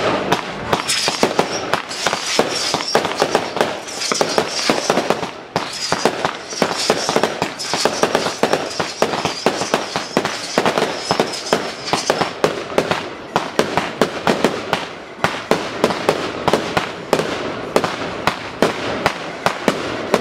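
Fireworks going off in rapid succession: a dense run of sharp bangs and crackles, several reports a second, with no let-up.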